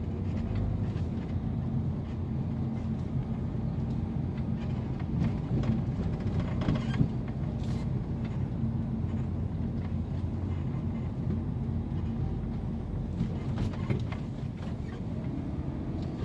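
Road and engine noise inside a 2011 Mini Countryman on the move, with a few brief knocks from the rear about seven seconds in. This is the creaking over rough road that the mechanic traces to worn-out rear stabilizer bar bushings.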